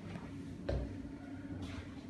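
Room tone of an empty interior with a steady low hum, one dull thump a little before the middle, and faint rustling near the end.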